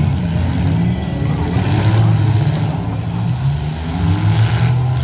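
Several full-size demolition derby cars' V8 engines running and revving together, loud, their pitch rising and falling as the drivers push and ram.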